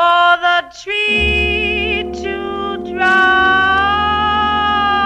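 A woman singing a slow song with wavering vibrato over a low instrumental accompaniment. The phrases are short at first, then about three seconds in she holds one long note.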